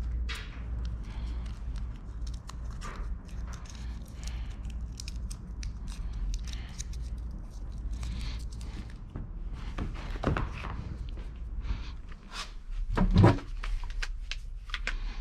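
Old car carpet being handled and pulled out of the interior: scattered rustling and crackling, with heavier thumps about ten and thirteen seconds in.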